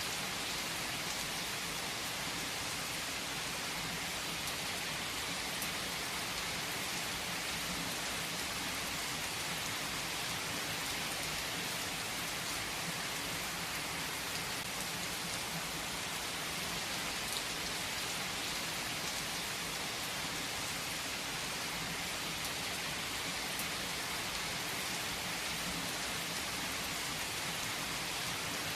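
Steady rain falling on a surface, an even hiss with a few faint drop ticks scattered through it.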